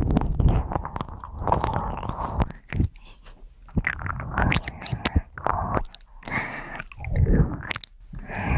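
Close-miked ear cleaning: an ear pick scraping and rubbing inside an ear, heard as irregular scratching with short clicks and low rubbing rumbles. It is denser in the first couple of seconds, then comes in separate bursts.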